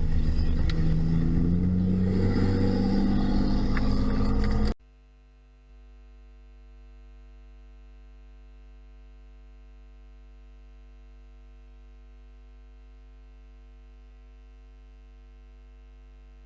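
Car engine and road noise, the engine's pitch rising and falling, that cuts off abruptly about five seconds in. A faint steady hum with several fixed tones follows.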